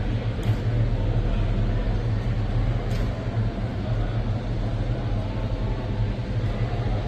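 A large vehicle engine idling with a steady, even low rumble.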